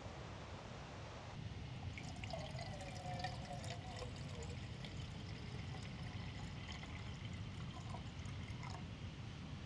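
Water trickling and splashing, faint, over a steady low rumble, with many small drip-like ticks starting about two seconds in.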